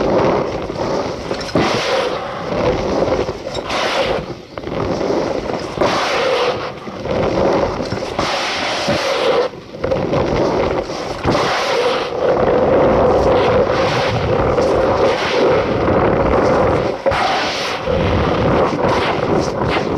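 Cornstarch powder being squeezed and crushed by hand, a loud squeaky crunching that swells and eases in uneven surges.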